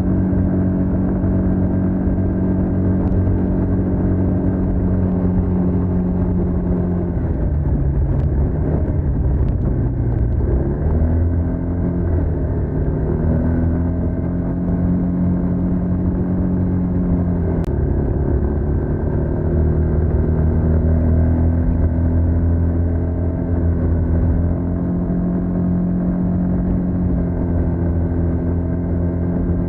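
TVS NTorq 125 scooter's single-cylinder engine running through its stock exhaust. The note holds steady, then sinks for a few seconds about a third of the way in as the throttle is eased and climbs back. It dips briefly twice more later.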